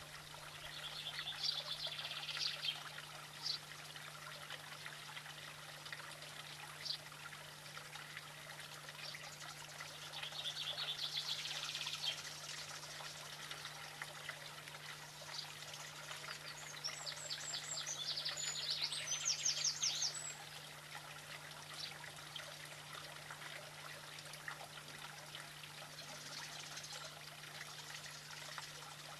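High, rapid chirping bird trills in three bursts a few seconds long, the last the loudest, over a steady low hum and faint hiss.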